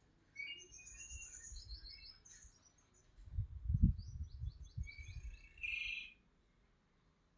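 Small birds chirping and calling in short varied phrases, including a quick run of about eight falling notes, over low dull thumps; the calling stops about six seconds in.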